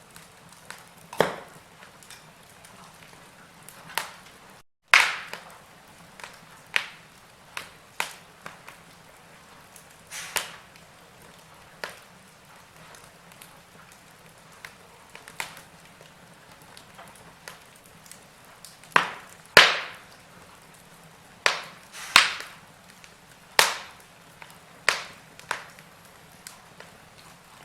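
Wood logs burning in a fireplace, crackling with irregular sharp pops and snaps over a faint steady hiss. The pops come a few seconds apart, with a cluster of louder ones in the second half.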